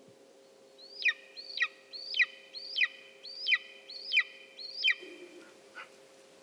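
White-tailed eagle calling: a series of seven evenly spaced yelping notes, about two a second, each rising briefly and then dropping steeply in pitch.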